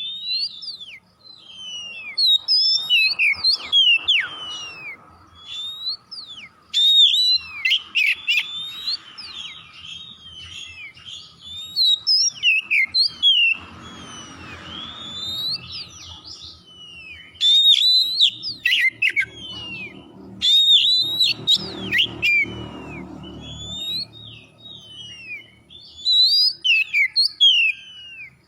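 Oriental magpie-robin singing a fast, varied song of sharp whistled notes that slide up and down, its phrases broken off abruptly several times.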